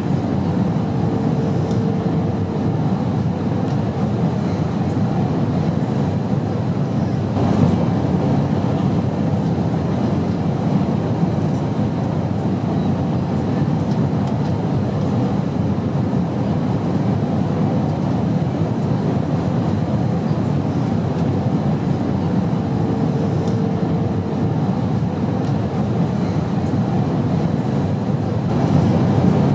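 Airplane noise: a steady, deep, even rumble with a faint brief hum appearing twice.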